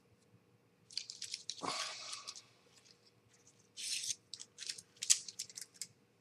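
Light clicking and rattling of small hard objects being handled, in two bursts of quick clicks: one from about a second in, the other from about four seconds in.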